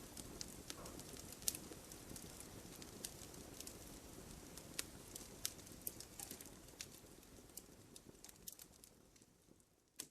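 Wood fire in a fireplace crackling, with irregular sharp pops of burning logs over a low, steady hiss of flame. The sound fades away near the end.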